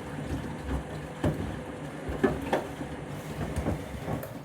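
Candy washing machine tumbling shoes in a rinse cycle: a steady low hum from the drum and motor, with the shoes knocking irregularly against the drum, the loudest knocks a little over a second and about two and a half seconds in.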